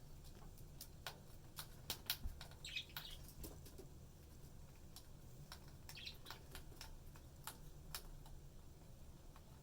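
Budgies sharpening their beaks: faint, irregular sharp clicks and taps of beak on a hard surface, with a couple of brief soft chirps about three and six seconds in.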